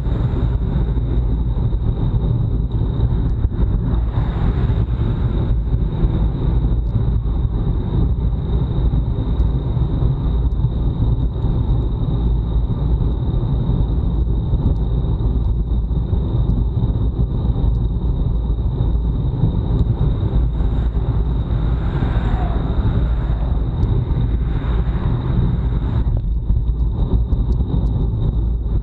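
Wind rushing over an action camera's microphone on a road bike at time-trial speed: a loud, steady low rumble with a thin, steady high whine over it.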